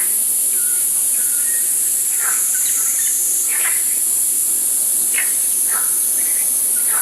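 Steady high-pitched insect drone with short bird chirps scattered through it.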